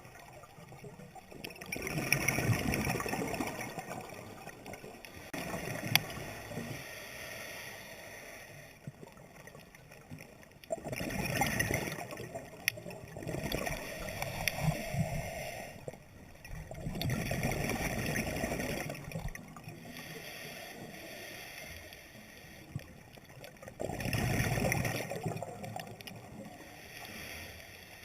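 Scuba diver breathing through a regulator underwater: a bubbling rush of exhaled bubbles every few seconds, with quieter stretches of breathing in between.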